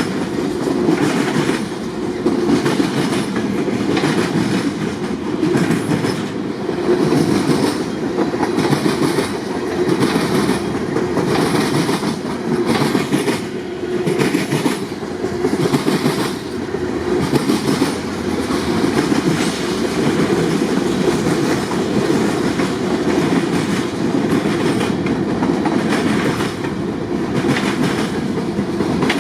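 Long CSX freight train's cars rolling past, steel wheels clacking over the rail joints in a steady, repeating rhythm.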